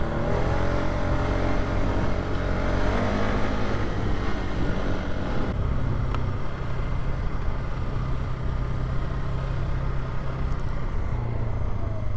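Polaris Sportsman 570 ATV's single-cylinder engine running under way on a dirt trail. The engine pitch rises and falls in the first few seconds, then holds steadier.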